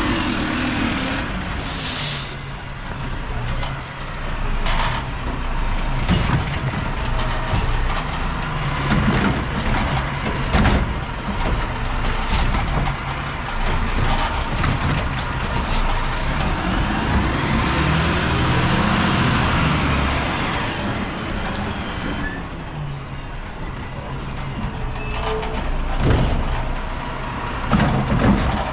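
Mack LR low-rider recycling truck with a Heil body running at close range, its engine rumbling steadily. High brake squeals come twice, about a second in and again near the end, with air-brake hisses, several sharp clanks, and a whine that rises and falls midway.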